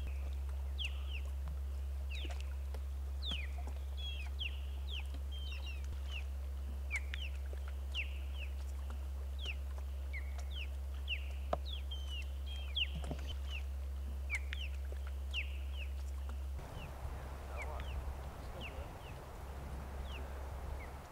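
Birds chirping: many short, quick downward chirps in an irregular string, over a steady low hum that turns rougher about two-thirds of the way through.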